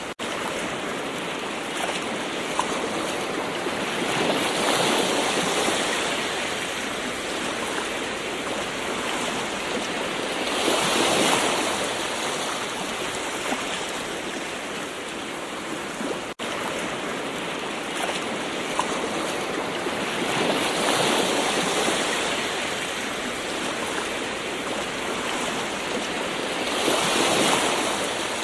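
Gentle ocean waves washing in over a steady rush of water, swelling four times, each swell several seconds apart. About halfway through, the sound cuts out for an instant.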